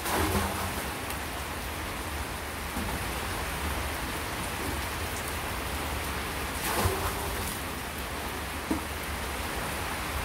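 Heavy rain falling steadily, with two brief louder surges, one at the start and one about two-thirds through.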